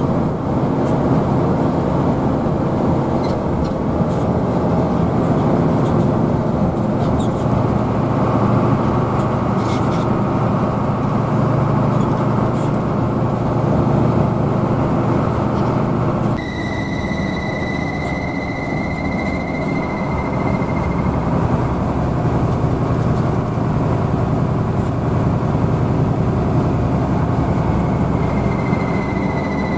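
Hino AK bus running on the road, heard from inside the cabin as a steady engine and road rumble. About halfway through the sound changes abruptly and a high, steady whine comes in, fades after a few seconds and returns near the end.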